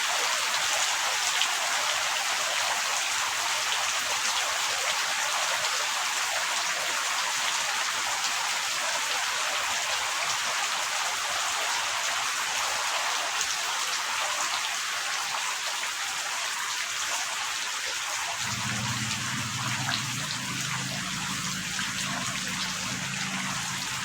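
Steady heavy rain: a dense hiss with fine patter of drops. About three quarters of the way in, a low steady hum of several tones joins underneath.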